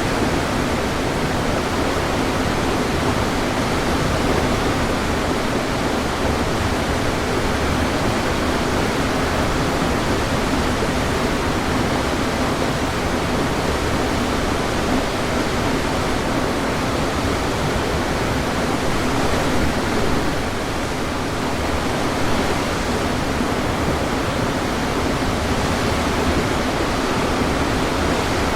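Waterfall on a river: water pouring and crashing in a steady, even rush with no breaks.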